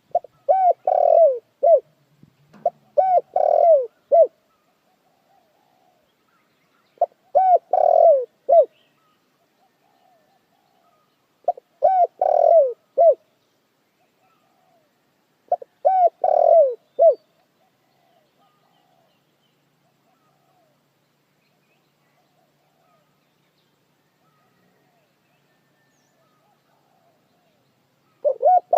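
A dove cooing in five rhythmic phrases of several notes each, roughly every four seconds, then pausing.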